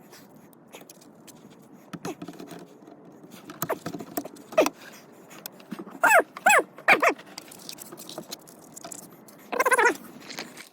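A dog whining: three short whines falling in pitch about six seconds in, and another near the end, with scattered light knocks before them.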